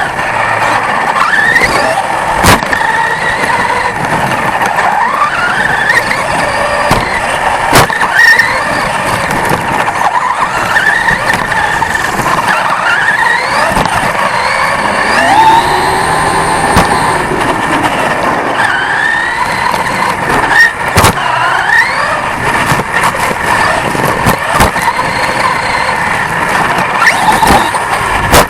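Onboard sound of a 1/10-scale off-road RC truck racing: its motor and drivetrain whine, rising in pitch again and again as it accelerates, over a steady rush of tyres on dirt, with sharp knocks every few seconds.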